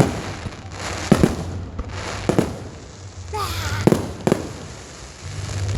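Fireworks going off: a string of sharp bangs and cracks at uneven intervals, several in a few seconds, some close together in pairs.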